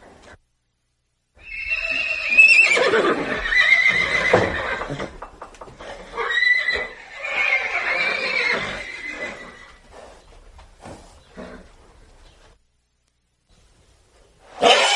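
Horse neighing: two long whinnies, the first about a second and a half in and the second about six seconds in, followed by a few fainter snorts.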